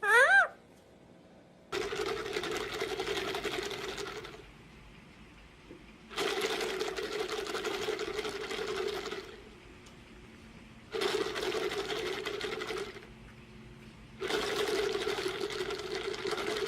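A small motorized machine running in four separate bursts of two to three seconds each, a steady hum under a noisy whirr.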